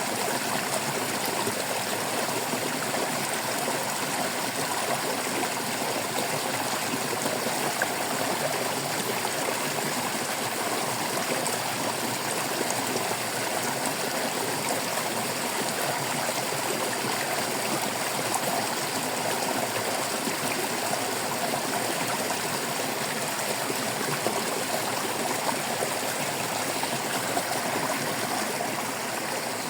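Small stream of water flowing and babbling over rocks, a steady trickling and gurgling rush.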